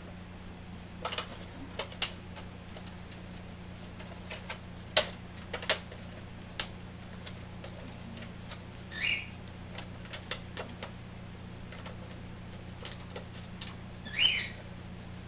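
Screws being taken out of the plastic housing of an upturned Dirt Devil vacuum's brush-roll cover: scattered clicks and taps of a screwdriver and screws on plastic, with two short squeaks.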